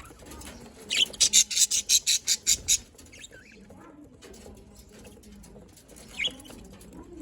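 Pet budgerigars: a quick run of about a dozen sharp, high-pitched sounds about a second in, then softer low chatter and one short falling chirp near the end.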